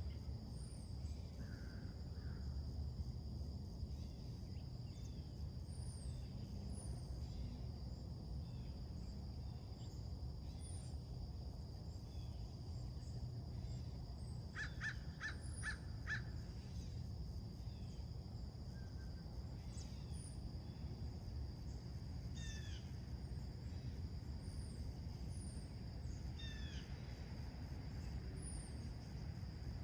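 Wild birds calling and singing in scattered short notes and slurred chirps, with a quick run of about five harsh calls midway. A steady high insect drone and a low background rumble run underneath.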